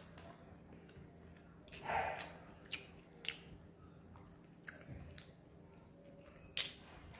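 Faint chewing of a mouthful of chicken biryani eaten by hand, with several short wet clicks and smacks of the mouth.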